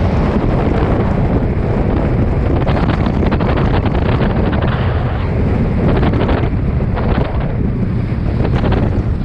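Heavy wind blasting the microphone over rushing water and spray from a Hobie 16 catamaran sailing in strong wind.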